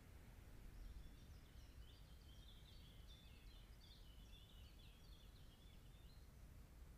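A songbird singing faintly, a quick run of short high notes starting about a second in and stopping near the end, over a low steady rumble.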